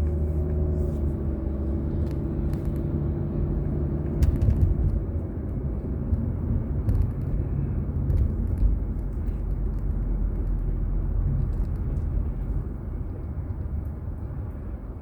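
Car engine and road noise heard inside the cabin: a steady low rumble with an engine hum that dips slightly about a second in, and a few faint clicks.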